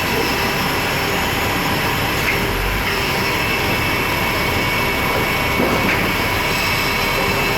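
Steady jet turbine noise with a high whine beside a parked Airbus A330, with a few faint clicks.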